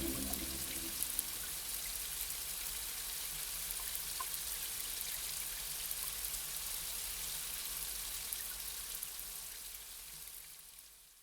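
Steady fine rain patter, a soft even hiss with a few faint drop ticks, fading out over the last two seconds. Music dies away in the first second.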